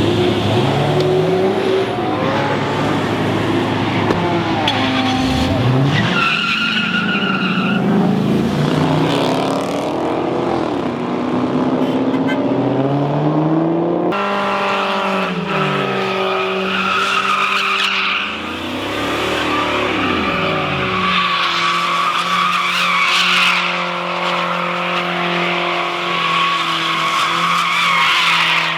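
High-performance car engines revving, the pitch climbing and falling back again and again, with tyre squeal and stretches of steady running. The sound changes abruptly about halfway through.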